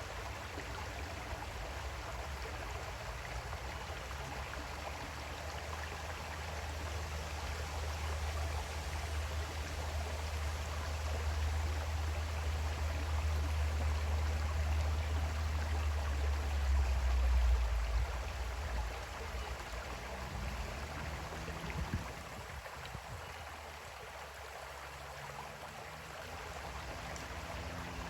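Creek water flowing steadily, with a low rumble underneath that swells and then fades out about two-thirds of the way through.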